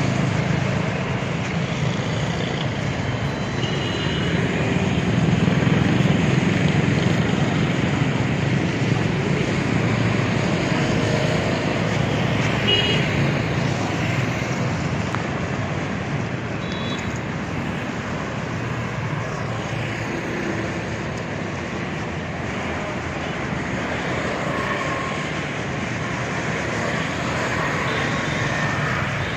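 Steady road-vehicle noise, engines and tyres on a road, with a few faint short higher tones here and there.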